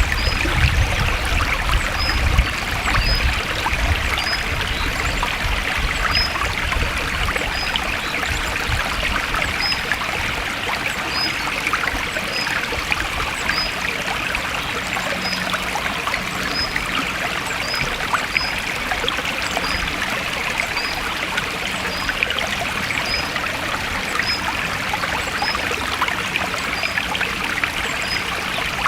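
A forest stream flowing and trickling steadily, with short high chirps repeating every second or so above the water.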